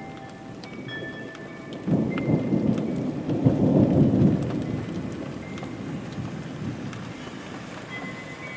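Steady rain with a roll of thunder that breaks in suddenly about two seconds in, swells to its loudest a couple of seconds later and then rumbles away.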